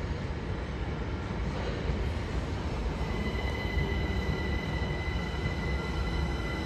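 Southern Electrostar electric train moving slowly past with a low rumble; about three seconds in, a steady high-pitched squeal from the wheels on the station track joins it and holds.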